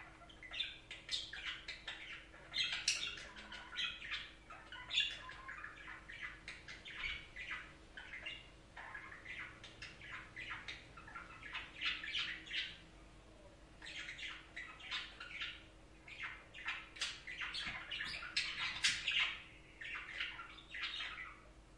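Budgerigars chattering: a steady stream of short chirps, warbles and squawks, several birds calling over one another with only brief lulls.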